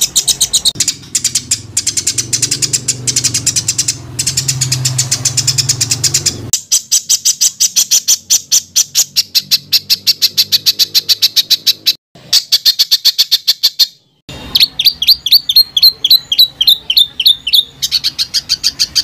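Songbird song in tight, harsh rapid-fire bursts, the 'tembakan rapat dan kasar' style used as tutor song for contest birds: long strings of sharp high notes repeated about six to ten a second. It comes as several spliced clips with abrupt cuts, and the later clip has quickly repeated upward-sweeping notes.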